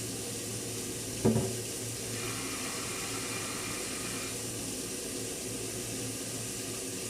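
Chicken pieces sizzling steadily as they brown in hot fat in a pot, with a single sharp knock about a second in.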